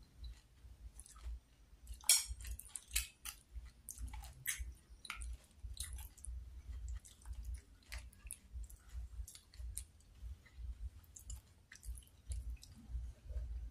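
A person chewing batagor, fried fish dumplings and tofu in peanut sauce, with the mouth closed: a run of irregular moist clicks and crunches that thins out after the middle.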